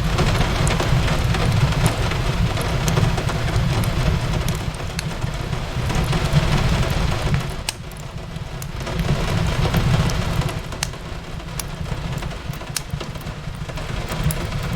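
Steady rain with a low rumble beneath it, and a wood fire crackling with scattered sharp pops. The rain swells and eases, dipping about halfway through.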